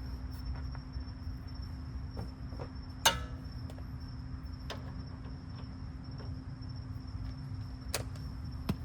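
Hand tools working on car suspension bolts: scattered light metallic clicks and a sharp ringing metal clink about three seconds in, over a steady low hum and a faint high whine.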